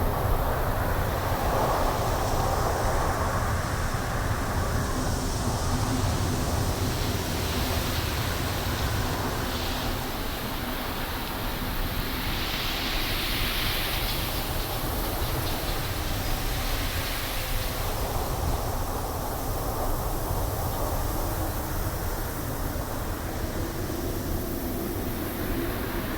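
Wind blowing through trees: a steady low rush with gusts that swell into a brighter hiss now and then, most strongly about halfway through.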